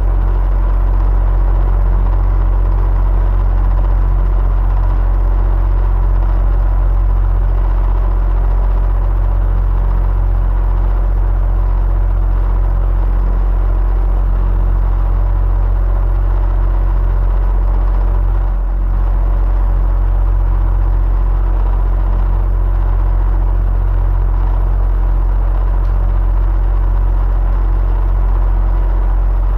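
Electric fan running steadily: a constant low hum and whir with a faint steady tone above it, dipping briefly about two-thirds of the way through.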